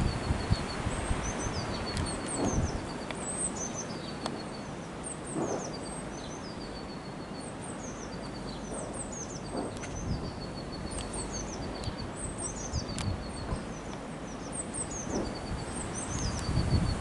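Songbirds singing. A short phrase of high descending chirps ending in a rapid even trill repeats every couple of seconds over a low rumbling background.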